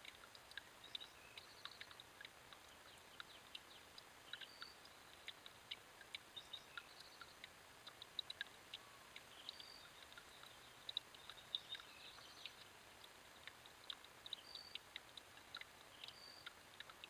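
Faint, frequent short high chips and calls of small birds, with a brief high whistled note recurring every few seconds, over a steady low hiss.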